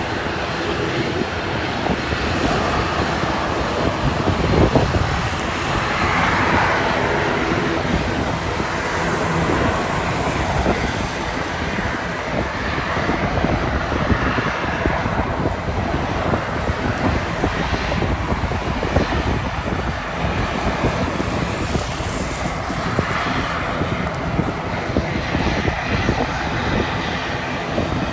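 Boeing 737-800 jet engines during a takeoff, a steady, dense rushing noise with no sudden events.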